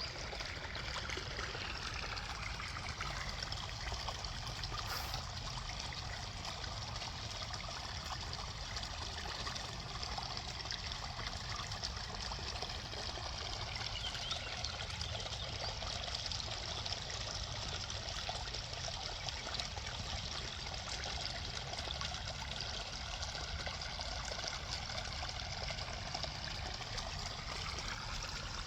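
Small forest brook babbling and gurgling over rocks in a steady, unbroken flow.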